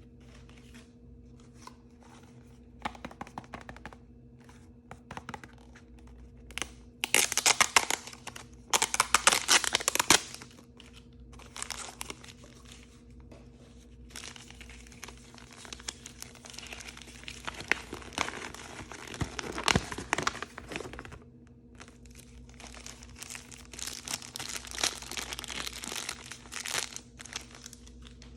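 Blind-bag packaging being torn open and crinkled by hand, in irregular crackling bursts; the loudest tearing comes about seven to ten seconds in, with longer crinkling stretches later. A faint steady hum runs underneath.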